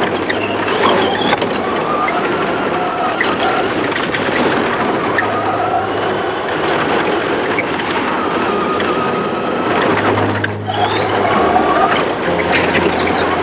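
Electric motor of a Traxxas Slash RC car whining, its pitch rising and falling with the throttle, with scattered clicks and crackle from the tyres on the dirt track. The whine dips briefly near the end, then climbs again.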